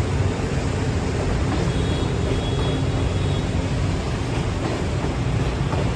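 Freight train running with a steady low rumble. A faint high-pitched tone comes in briefly in the middle.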